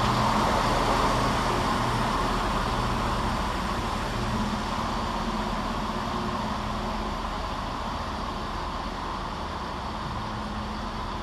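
Scotrail Class 170 Turbostar diesel multiple unit moving slowly through the station, its underfloor diesel engines running with a steady low hum that slowly fades.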